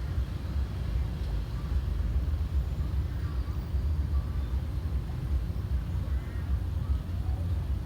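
A steady, noisy low rumble with a few faint high chirps over it.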